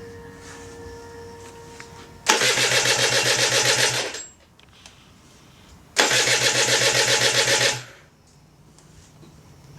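Freshly rebuilt Rotax 122 two-stroke engine of an Aprilia RS125 being turned over on full choke in two loud bursts of about two seconds each, with fast even pulsing. The new internals are very tight.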